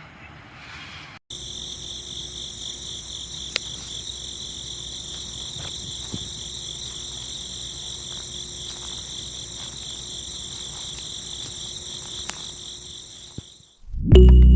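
Steady high-pitched insect chirring, like crickets, with a few faint clicks, cutting in about a second in and fading out near the end.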